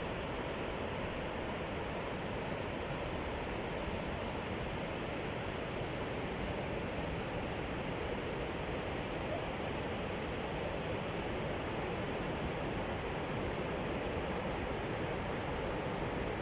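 Sea surf washing on the shore, a steady rush of waves without distinct breaks.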